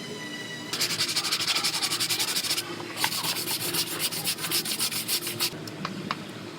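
Sanding body filler over the welded seams of a car quarter panel: two runs of quick, even rubbing strokes, the second beginning about three seconds in, followed by a couple of light clicks near the end.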